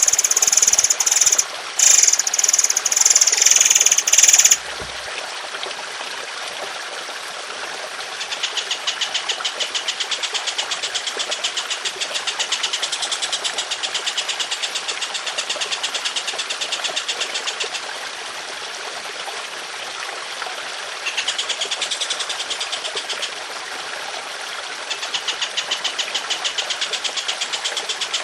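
Songbird training recording over trickling water. A loud, high song opens it, then long, very fast rattling trills ("tembakan panjang kasar") come in three runs.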